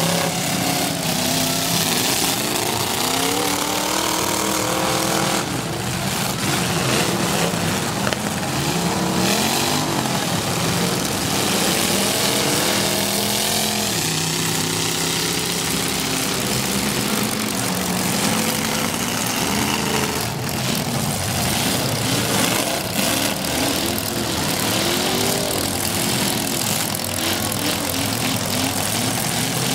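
V8 engines of demolition derby cars running and revving hard, several at once, their pitch rising and falling again and again.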